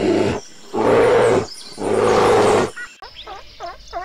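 Bear growling: three long, loud, rough growls with short pauses between them. About three seconds in they give way to a softer run of short, swooping animal calls, about three a second.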